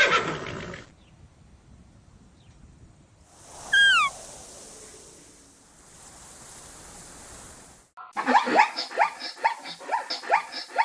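Animal calls: a horse's whinny fades out at the start, a single short falling whistle-like call comes about four seconds in, and from about eight seconds on there is a rapid run of short yelping calls, several a second.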